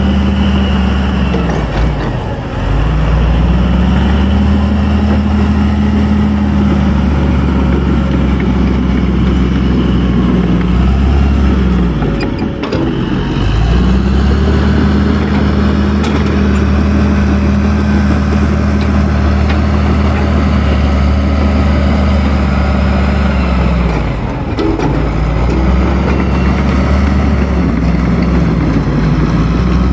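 Kobelco excavator's diesel engine running steadily at working revs. Its pitch dips sharply and recovers three times, about ten seconds apart.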